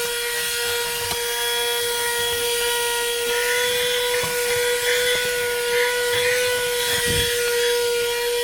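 Niecarva SV07 12-volt handheld car vacuum running steadily: a constant high motor whine over the rush of air through the crevice tool. A dull knock comes about seven seconds in.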